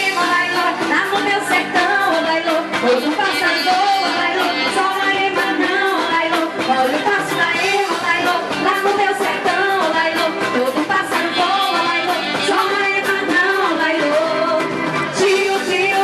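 Frevo band music with singing, playing continuously.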